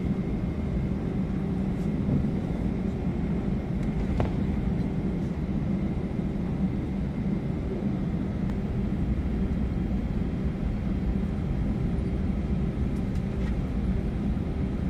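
Steady rumble and hum of a jet airliner's engines at taxi power, heard from inside the cabin as the plane rolls towards the runway, with a faint steady whine above it.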